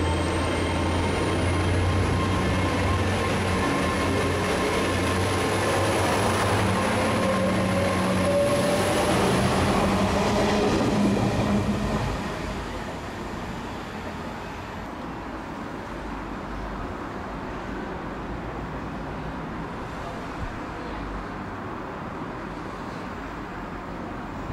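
GWR Class 800 bi-mode train running on its underfloor diesel engines along the track: a low engine drone with a whine that rises in pitch. It fades sharply about twelve seconds in, leaving a quieter steady background.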